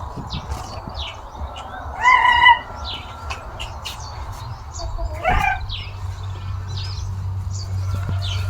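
Small birds chirping repeatedly, with two louder calls from a chicken, about two seconds in and about five seconds in. A low steady hum underneath grows louder from about six seconds in.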